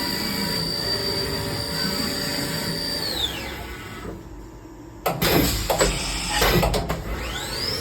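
CNC machining center spindle whining steadily at 10,000 RPM, then spinning down about three seconds in. After a short lull comes a burst of mechanical clunks and clatter, and near the end the spindle whine rises again as it spins back up.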